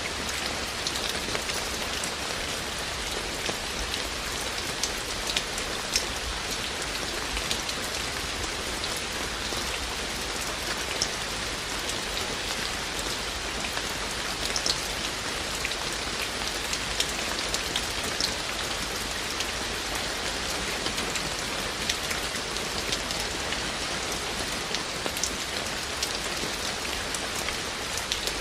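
Steady rain falling, with many separate drops ticking sharply on top of the even hiss.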